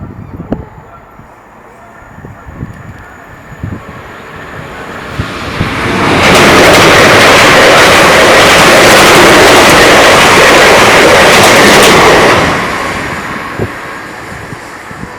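A train passing close by at speed: a rushing rumble of wheels on rails that swells from about four seconds in, stays loud for about six seconds, then dies away.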